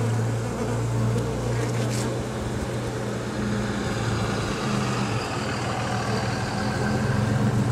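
A mass of honeybees from an opened tree hive buzzing close by in a steady, low hum.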